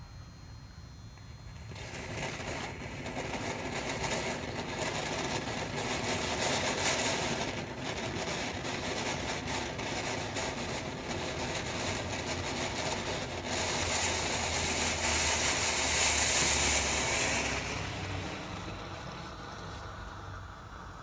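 Firework fountain burning: a steady spraying hiss starting about two seconds in, with crackles through it. It swells near the end, then dies down.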